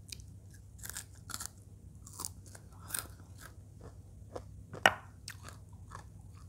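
Close-up chewing and crunching of fried eel in chilli sauce (belut balado), a string of short, irregular crunches with one sharper, louder crack about five seconds in.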